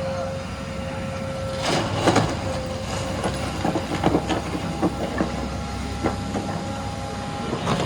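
JCB 3DX backhoe loader's diesel engine running with a steady whine, with irregular metallic clanks and knocks from the machine at work, the loudest about two seconds in.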